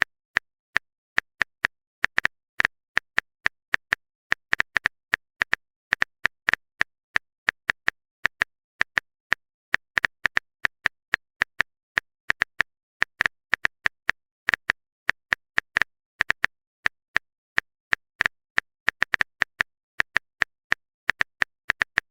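Rapid, irregular clicking of a phone keyboard typing sound effect, a few taps a second without pause, each tap a short, crisp click.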